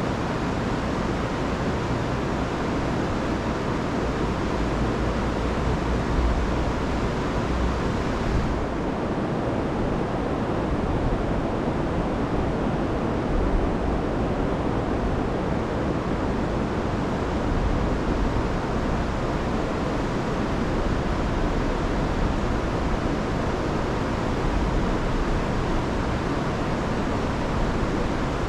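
Steady rush of a river swollen by a week of rain, pouring over waterfalls. Its hiss turns duller abruptly about eight seconds in.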